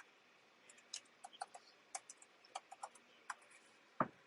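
Typing on a computer keyboard: scattered, irregular key clicks, with one heavier key press about four seconds in.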